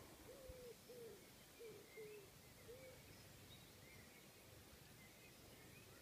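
Faint birds calling: a run of short, low, hooting notes over the first three seconds, with thin high chirps scattered throughout.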